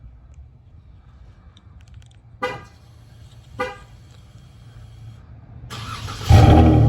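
Two short horn chirps from a 2021 Dodge Charger GT AWD, a little over a second apart. Near the end comes a brief whir of cranking, then its 3.6-litre V6 catches on a cold start and runs loudly through Flowmaster Super 10 mufflers with the resonator deleted.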